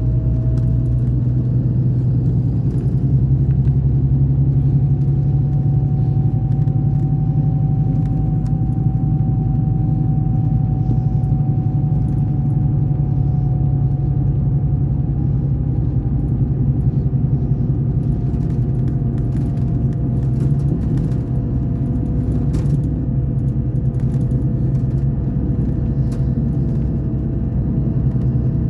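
Scania K420 coach's diesel engine running steadily, a deep constant drone with a faint whine that rises a little and eases back. A few light clicks or rattles come in the second half.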